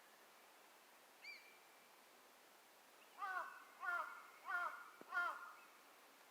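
A bird calling: one short call about a second in, then a series of four clear, down-sliding calls about two-thirds of a second apart.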